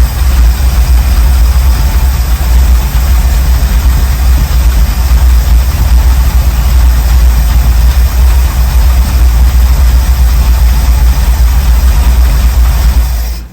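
1979 Ford Bronco's 351M V8 engine running at a steady idle.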